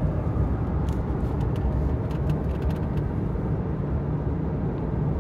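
Steady low drone inside a moving pickup truck's cab under light throttle: engine and exhaust through a Walker Quiet-Flow muffler, mixed with tyre road noise, quiet inside the cab.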